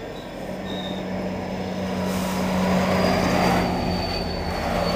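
GO Transit bilevel commuter train passing below, with the diesel locomotive's steady engine drone and the wheels' rumble growing louder to a peak a little past halfway as the locomotive passes underneath. A thin, high steady wheel squeal sounds over it from about three seconds in.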